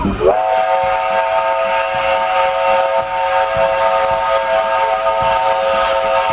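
Steam locomotive whistle blown in one long blast of about six seconds: several notes sounding together as a chord, sweeping up in pitch at the start, then held steady until it cuts off near the end.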